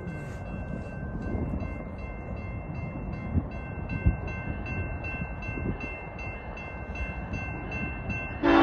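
Low rumble of an approaching BNSF freight train. Near the end the locomotive's air horn starts, loud and sustained.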